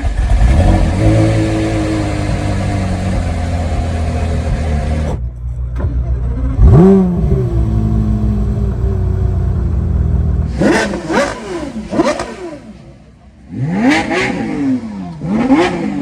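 Porsche Carrera GT's 5.7-litre V10 running steadily just after being started, then revved: one rev about seven seconds in, and a string of short, sharp blips in the last five seconds, each rising and falling quickly.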